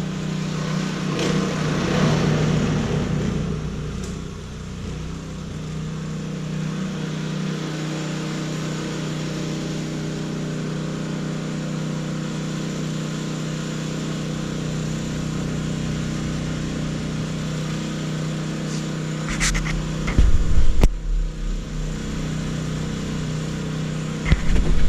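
An engine running at a steady speed, with a few heavy low thumps near the end.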